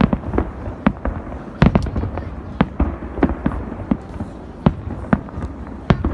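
Fireworks going off: a rapid, irregular run of sharp bangs over a steady low rumble, the loudest cluster about a second and a half in.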